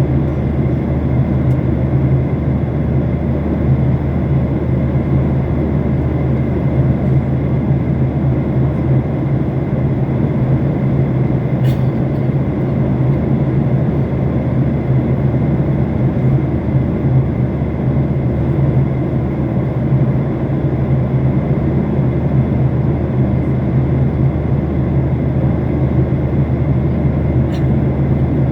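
Airliner cabin noise in flight: a steady drone of engines and airflow with a strong low hum.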